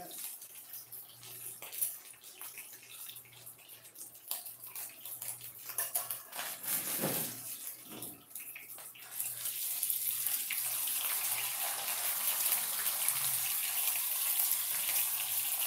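Rice patties sizzling as they fry in oil in a stainless-steel skillet, with a metal spatula clicking and scraping against the pan. About nine seconds in, the sizzle grows louder and turns into a steady hiss as the patties are turned over.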